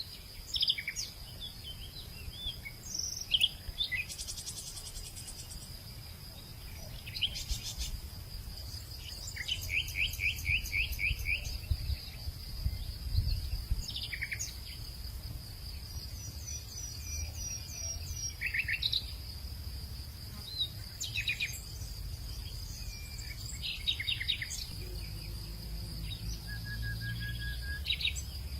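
Hillside ambience: a steady high-pitched insect drone with many short bird chirps and trills scattered through it, over a low rumble.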